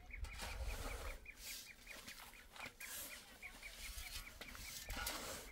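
A bird chirping in a rapid, even series of short high notes, about six a second, stopping near the end, with occasional short scraping noises.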